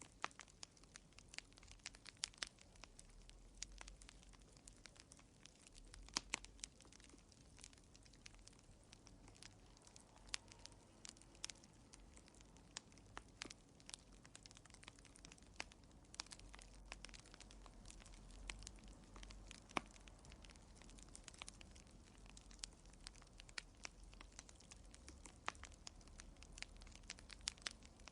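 Quiet wood fire crackling in a fireplace: irregular sharp pops and snaps, often several a second, over a faint low rumble of the flames.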